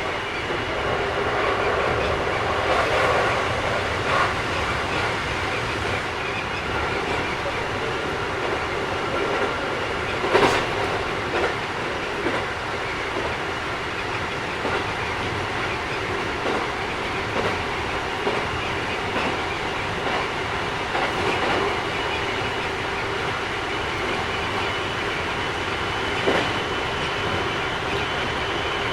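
Keikyu 1000 series train with Mitsubishi IGBT inverter drive running at speed, heard from inside: a steady rumble of wheels on rail with a thin, steady high tone. A few sharp rail-joint clacks come through, the loudest about ten seconds in. This set runs a little noisier than other sets.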